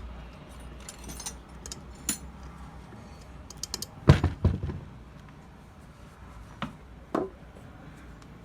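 Metal parts and tools being handled on a workbench: scattered light clinks, then a few louder knocks about four seconds in and two more single knocks near the end.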